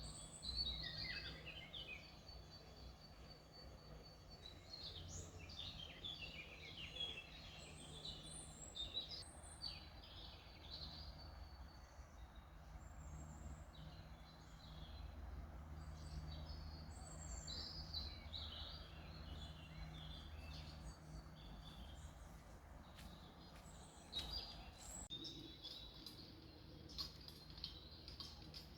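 Songbirds chirping and trilling in many short, overlapping calls over a faint low rumble, with a few sharp clicks near the end.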